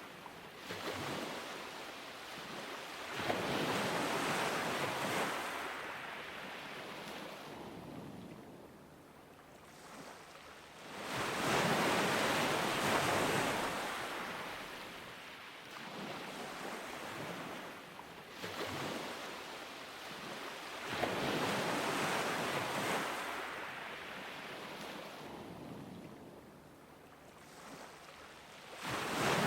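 Ocean waves breaking on a beach: three slow swells of surf, about eight to ten seconds apart, each building to a loud rush and ebbing into a quieter wash, with a fourth wave starting to break near the end.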